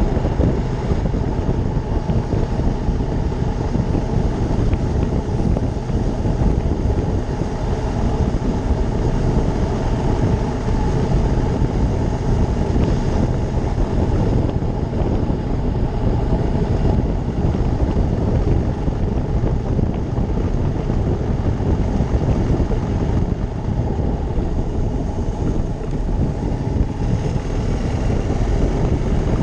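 Ducati Monster 620's air-cooled V-twin engine running at a steady pace while the motorcycle is ridden, with wind rushing over the microphone.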